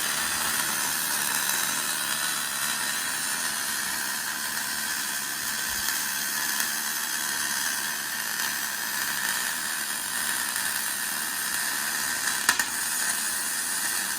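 Steady hiss of a wire-feed welding arc laying build-up weld inside the worn pin bore of a loader quick hitch, which is being restored before re-boring to size. A single sharp click near the end.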